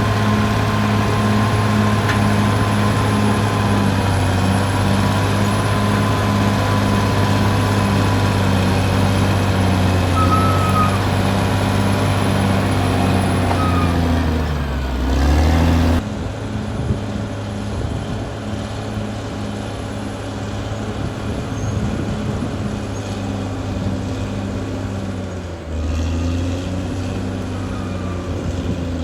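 Caterpillar D6R XL bulldozer's diesel engine running under load, with a regular pulsing a few times a second. The engine note dips about halfway through, and the sound then turns abruptly quieter.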